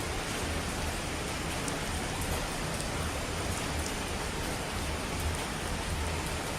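Steady rush of falling water, an even hiss with a few faint drop-like ticks scattered through it.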